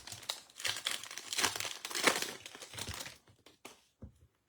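A trading-card pack wrapper being torn open and crinkled for about three seconds, then a few light clicks as the cards are handled.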